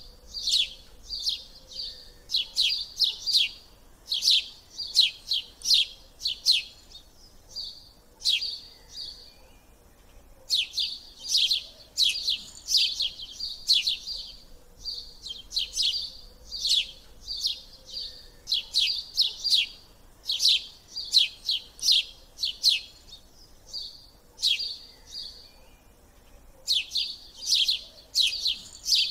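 A small bird chirping: fast runs of high, sharp chirps, several a second, in phrases a few seconds long with short pauses between them.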